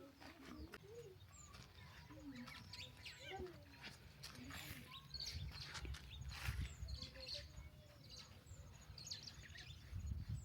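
Birds chirping in short, scattered calls, with a few lower calls and a faint low rumble underneath.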